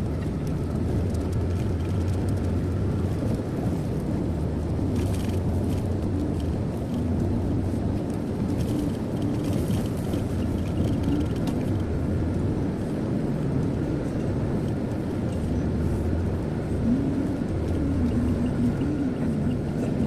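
Steady road noise of a car driving at speed: a low rumble of tyres and engine with a faint wavering hum. A brief hiss swells up about five seconds in and again around nine to ten seconds in.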